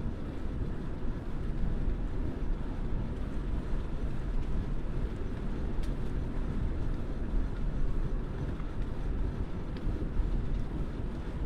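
Steady low rumble of wind on the microphone and road noise from a moving bike, with no breaks.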